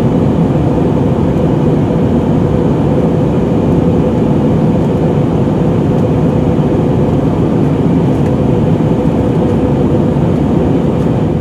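Steady cabin roar inside an Airbus A320neo in flight during descent: an even rush of airflow and engine noise with a steady hum running through it.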